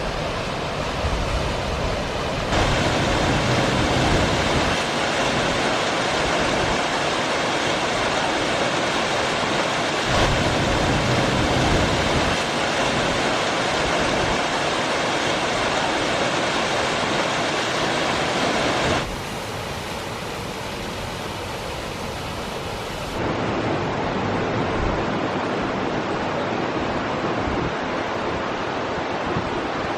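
Waterfalls on a small river cascading over rocks: a dense, steady rush of water. The sound shifts abruptly a few times, dropping quieter at about 19 seconds in and rising again at about 23 seconds.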